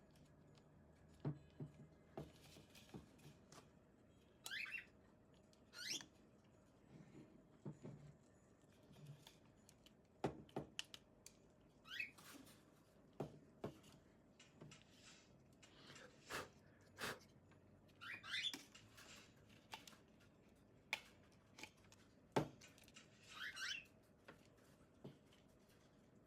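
Scattered small clicks and taps of a plastic hair dryer housing and small tools being handled, with a few short rising squeaks spread through.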